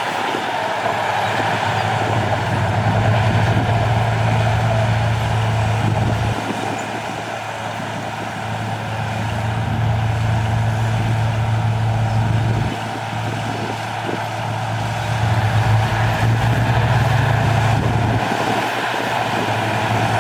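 Heavy diesel engine of earthmoving machinery running steadily, its low hum easing off and picking up again three times.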